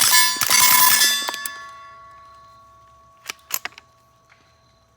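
Rapid string of suppressed .22 shots from a Ruger 10/22 with a binary trigger and a SilencerCo Sparrow suppressor, with steel targets clanging and ringing on the hits. The dinging steel is louder than the gun. The quick burst fills the first second or so and its ringing dies away, then a few more shots and clangs come about three and a half seconds in.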